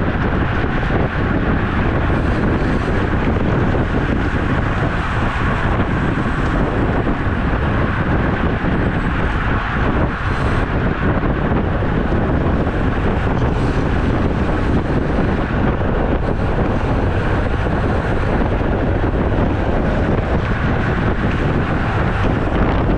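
Steady wind noise buffeting the microphone while riding a road bicycle at speed, a continuous rushing roar heaviest in the low end.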